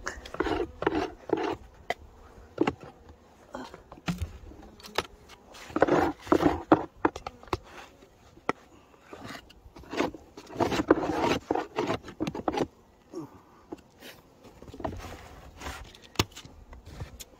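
Wooden beehive parts being handled: repeated scraping, rubbing and knocking in several bunches of quick strokes, the busiest spells about 6 s in and from about 10 to 12 s in.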